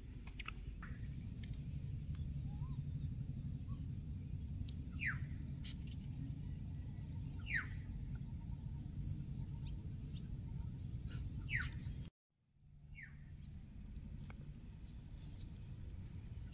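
A bird calling outdoors, a short note that slides downward, repeated every two to three seconds, over a steady low rumble.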